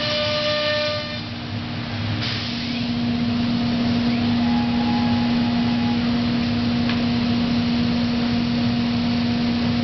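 Biesse Rover B CNC router running: a steady hum over a constant noisy rush. It dips briefly about a second in, then holds steady and loud.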